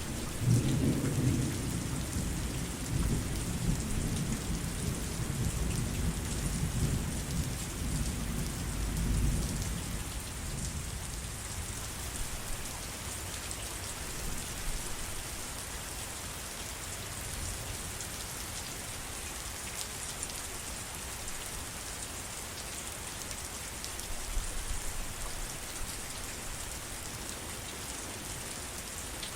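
Steady heavy rain hissing down, with a low rumble of thunder in the first few seconds that dies away about ten seconds in, and a fainter low rumble near the end.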